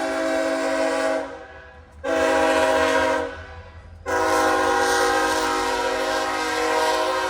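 Diesel locomotive air horn sounding a chord in blasts: one cuts off about a second in, a second blast follows after a short gap, and after another short gap a long blast holds on. A low locomotive rumble runs underneath.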